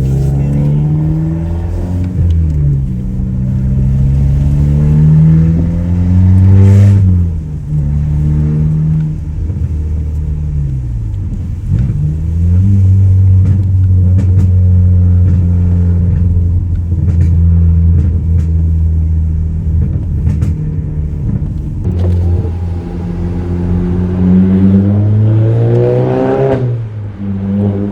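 Straight-piped Audi A3 8P exhaust, with muffler and resonator deleted, under acceleration. The engine note climbs for about seven seconds, drops sharply, holds steady for a long stretch, then climbs again and falls near the end.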